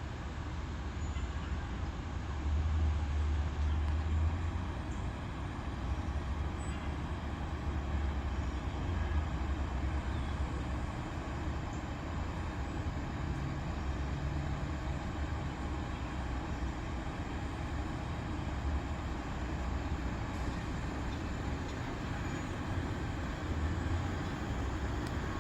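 Heavy diesel engine of a fire truck running as it drives slowly past, a low steady rumble that swells briefly a few seconds in.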